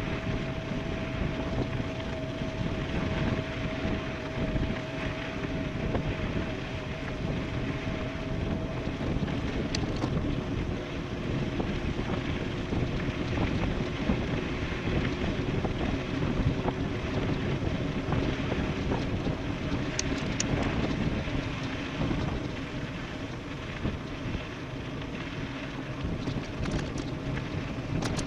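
Heavy wind buffeting the microphone of a camera on a fast-moving e-bike descending a road, a steady rush and rumble. A faint steady hum runs under it and drops lower in pitch about a third of the way through.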